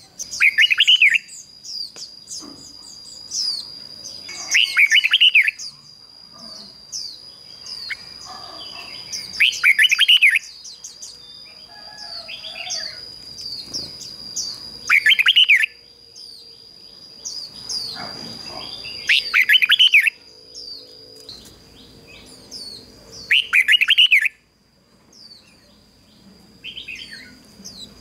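Red-whiskered bulbul singing short, loud, warbling phrases, one about every four to five seconds. A steady high-pitched tone with small repeated chirps runs behind the song.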